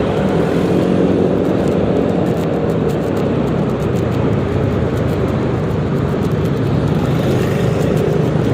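Yamaha XMAX 300 scooter's single-cylinder engine running steadily under way, with road and wind noise, heard from the rider's position.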